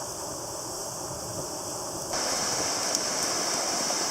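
Steady rush of a flooded, rain-swollen river running high. About two seconds in, it gets louder and hissier.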